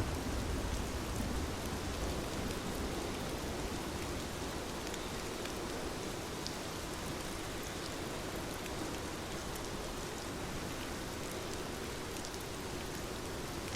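Heavy rain falling steadily, with scattered individual drop ticks over the dense hiss. A faint low rumble of distant thunder fades out in the first second or two.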